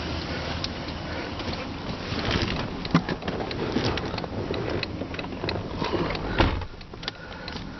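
Inside a 2006 Jeep Commander's cabin, a low steady hum from its 4.7-litre V8, with scattered clicks and knocks from switches and fittings being handled, and a louder thump about six and a half seconds in.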